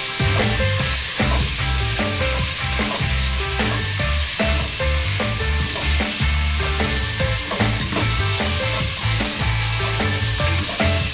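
Sliced onions sizzling as they fry in oil in a pot, stirred and scraped with a plastic spatula, under background music with a bass line.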